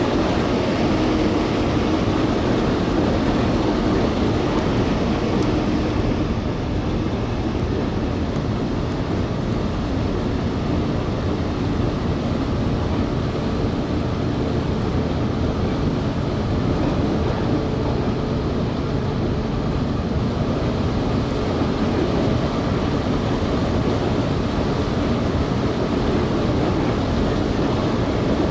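Steady running noise inside a moving passenger train: a continuous low rumble of wheels on the rails and the car underway, with no distinct clicks or breaks.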